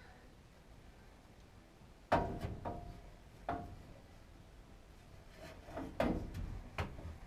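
A quiet start, then a string of sharp, irregular knocks and clatters, beginning about two seconds in, as parts and tools are handled during the draft inducer swap.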